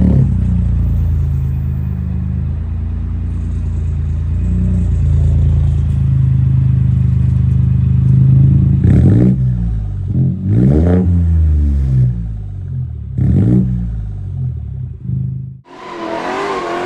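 BMW 1 Series engine running through its newly fitted custom exhaust, holding a steady note for several seconds, then revved sharply three times with the pitch rising and falling each time. Near the end the sound cuts abruptly to a higher, rougher engine note.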